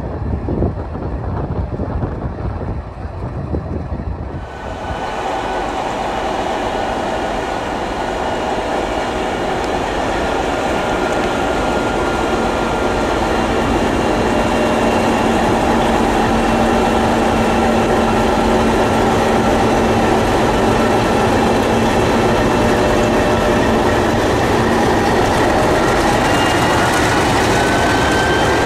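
MLW diesel locomotives working, the roar swelling over the first several seconds and then holding steady, with several high whining tones above it. Low wind-like rumble before the locomotive noise takes over, a few seconds in.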